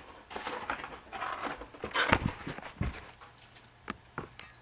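Plastic protective film rustling and crinkling in irregular bursts as it is cut and pulled off a part, with a few sharp clicks near the end.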